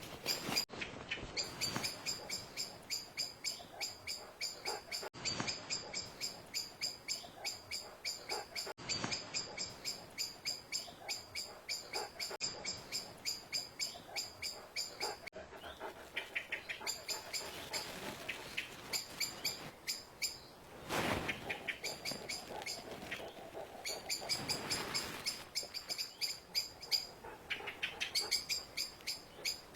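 Common blackbird's alarm call: a long run of sharp, repeated 'chink' notes, about three a second, scolding an intruder. A short burst of noise comes about two-thirds of the way through.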